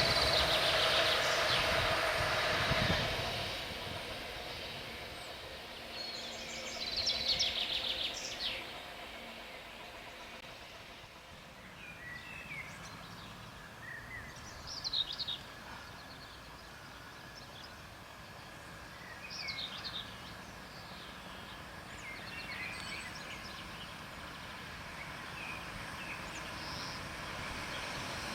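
A passing train fading away over the first three seconds, then a quiet open-air background with birds calling in short, scattered bursts. The background noise starts to swell again near the end.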